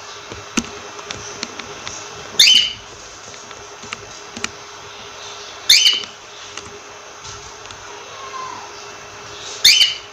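Cockatiel calling: three short, loud calls about three to four seconds apart, with a few soft clicks between them over a steady background hum.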